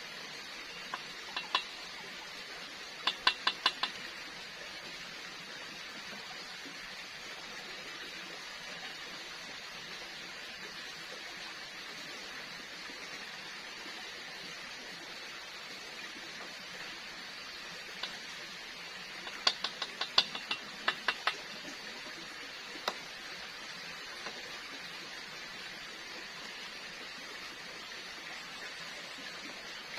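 Cooking utensils clinking against cookware in two short bursts of quick sharp taps, over a steady hiss.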